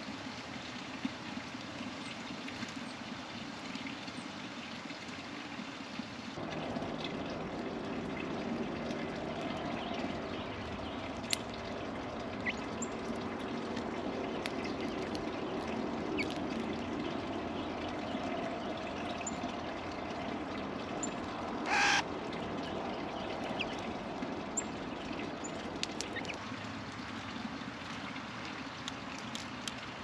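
Wild birds at a feeder over a steady background rush: scattered short, faint chirps of small birds, and one loud, harsh, brief call about two-thirds of the way through.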